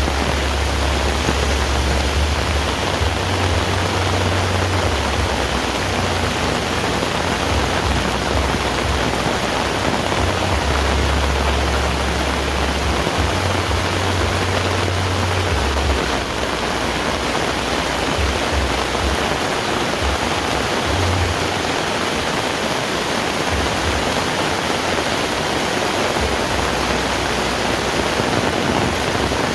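Heavy rain falling steadily with a dense, even hiss. A low rumble comes and goes during the first half and fades after about sixteen seconds.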